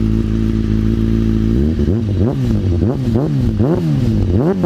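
Motorcycle engine idling steadily through its old exhaust, then revved in a run of quick throttle blips from about a second and a half in, the pitch rising and falling with each blip.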